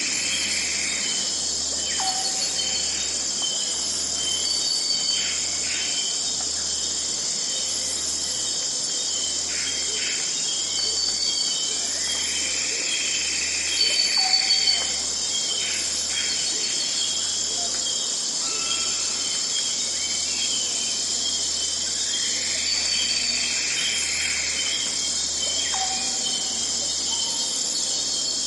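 Forest ambience: a steady, high-pitched chorus of insects with bird calls returning about every ten to twelve seconds.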